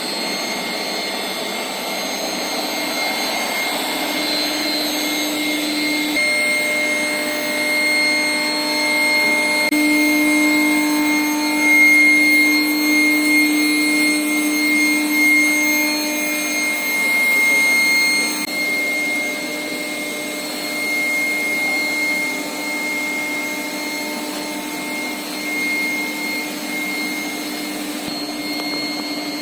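Steel pipe induction annealing line running: a steady industrial drone with several whining tones held at constant pitch.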